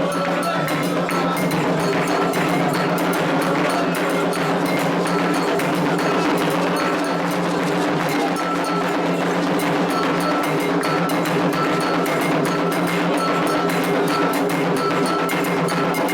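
Candomblé ritual percussion: atabaque hand drums playing a dense, steady rhythm, with an agogô iron bell striking a repeating ringing pattern over it.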